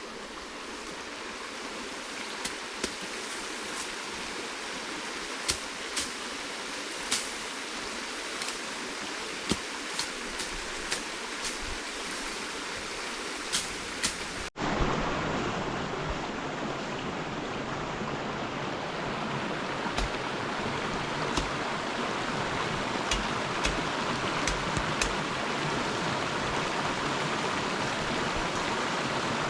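Flowing river water, a steady rush, with scattered sharp clicks and knocks over it. About halfway through, the sound cuts abruptly to a louder, fuller rush.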